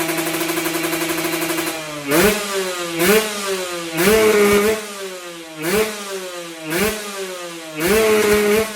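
Kawasaki Ninja motorcycle engine through its exhaust, idling steadily, then revved in six sharp throttle blips starting about two seconds in, two of them held briefly, with the pitch falling back after each.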